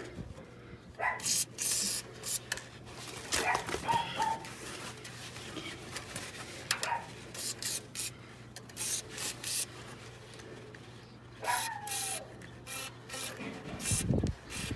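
Scattered rubbing, scraping and clicking from hands working on a swamp cooler's blower and panels after its bearings have been oiled, with a few brief squeaks and a faint steady low hum. A low thump comes near the end.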